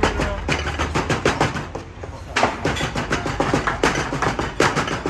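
A rapid, irregular clatter of sharp knocks, with a low hum underneath.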